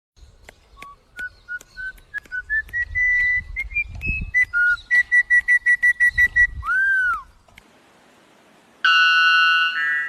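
A bird whistling a series of clear notes that step upward in pitch, each with a faint click. This is followed by a fast run of about seven same-pitched notes a second and one arched, down-slurred whistle. After a short pause with faint hiss, a brief, fuller call of several stacked tones comes about nine seconds in.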